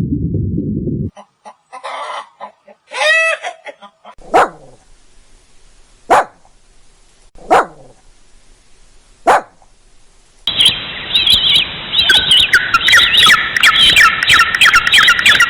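Four single dog barks, each a short falling cry, spaced a second and a half to two seconds apart. About ten seconds in, a loud run of rapid, high-pitched bird chirping takes over.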